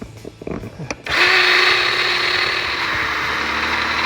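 A Black+Decker electric chainsaw starts about a second in and runs at a steady pitch, after a few light knocks.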